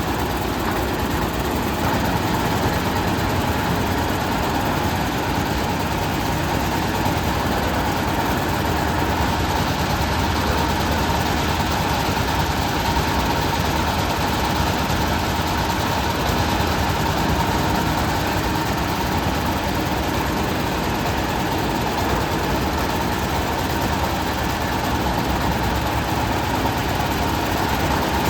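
440-model concrete mixer machine running steadily: a continuous engine drone that holds one speed throughout.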